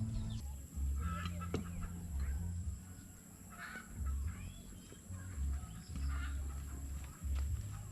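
Chickens clucking now and then in short calls, over a low rumble of wind on the microphone.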